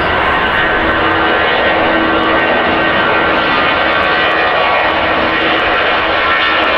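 Jet airliner passing at close range, its engines making a loud, steady rushing noise with several held whining tones over it.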